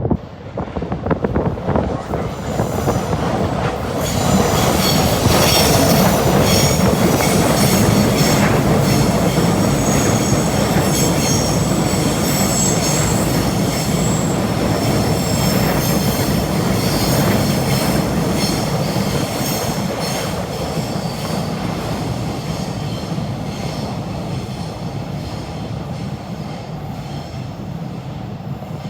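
A passenger train running past on the elevated railway viaduct, its wheels squealing in a thin high pitch over the running noise. It swells about four seconds in, then slowly fades away toward the end.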